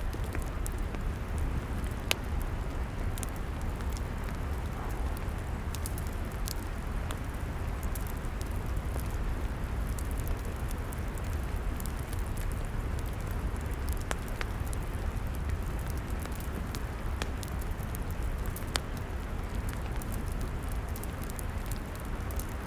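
Log fire crackling: frequent sharp pops and snaps over a steady low rumble, with a few louder pops standing out.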